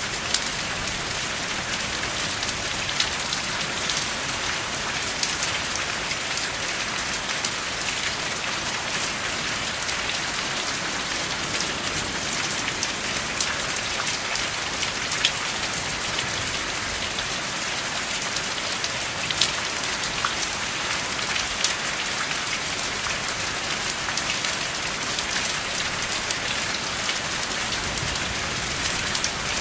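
Steady rain falling, an even hiss with sharp drop ticks scattered through it, and no thunder.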